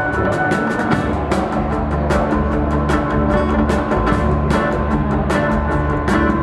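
A rock band playing an acoustic arrangement live, in an instrumental passage without vocals: sustained chords over a strong bass line, with regular percussive hits keeping a steady beat.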